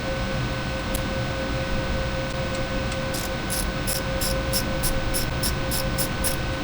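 Steady hiss with a faint hum underneath. About three seconds in, a run of about ten light, evenly spaced clicks, roughly three a second, from hand-tool work on the engine's raw water pump as the old impeller is taken out.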